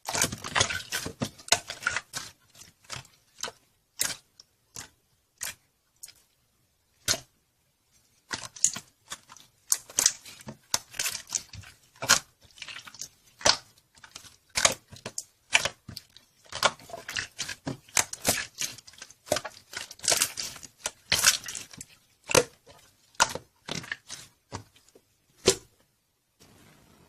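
Slime being squeezed, stretched and poked by hand, giving irregular sharp pops and crackles in quick clusters, with a short quiet pause early on.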